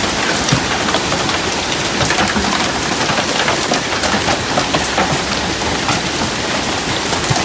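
Hailstorm of marble- to half-dollar-size hail with heavy rain, pelting the ground and the trees: a loud, steady clatter of countless small impacts over a continuous rushing hiss.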